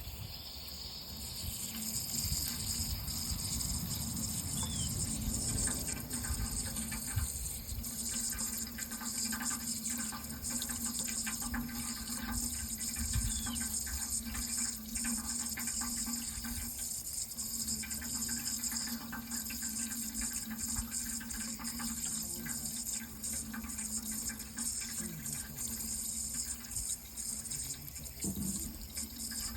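Water running steadily, with a constant low hum beneath it.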